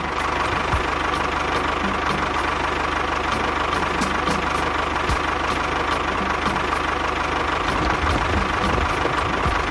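Small electric motor and gearbox of a DIY miniature construction vehicle running steadily, with a steady whine and a faint regular tick about three times a second.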